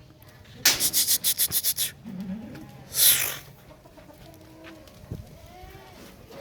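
Farmyard sounds: a quick run of about ten scraping, rubbing strokes about a second in, then a short hissing burst near the middle, with faint chicken calls.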